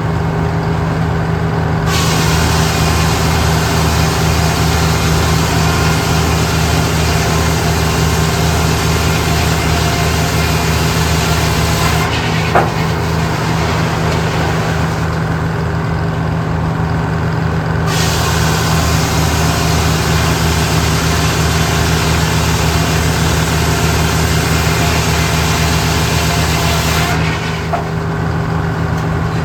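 A motor running steadily with a constant hum. A louder rushing noise rises over it about two seconds in, eases off for several seconds in the middle, then returns and drops away near the end.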